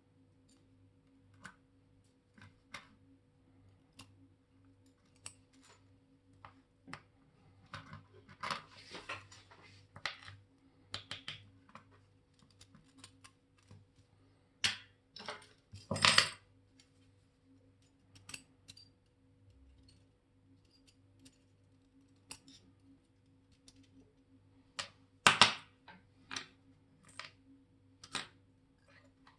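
Small metal clicks and taps of watchmaker's tools and watch parts handled on a workbench, with louder clattering knocks about 16 and 25 seconds in. A steady low electrical hum runs underneath.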